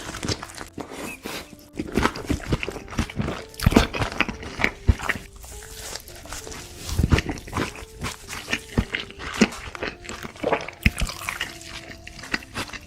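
Close-miked mukbang eating: wet chewing, lip-smacking and slurping of saucy food, in irregular quick smacks, under quiet background music.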